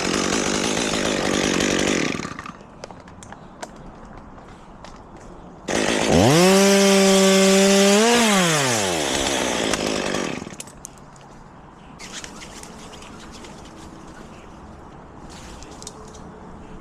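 Chainsaw cutting through wood under load, easing off about two seconds in. A few seconds later it is revved to full throttle, held steady for about two seconds, then released and winds back down.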